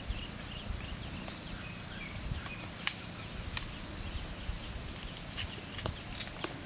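Small birds chirping on and off in the background, with a couple of sharp clicks near the middle and a faint steady high tone.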